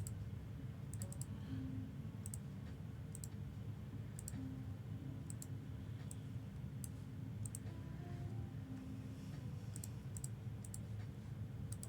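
Scattered light clicks, some single and some in quick pairs or triples, over a low steady hum.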